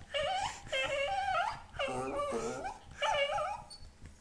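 A dog whining in about four drawn-out, wavering pitched calls, one after another with short gaps.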